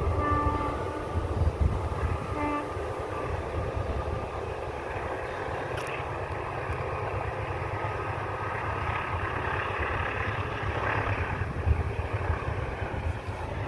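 A passing train: two short horn blasts in the first three seconds, over the steady rumble and clatter of the train running.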